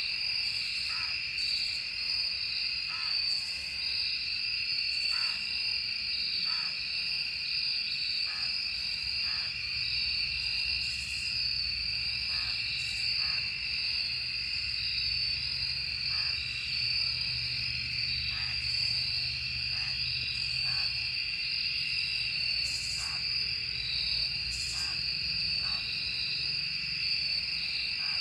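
Steady, high-pitched insect chorus, a continuous shrill trill with short chirps scattered through it.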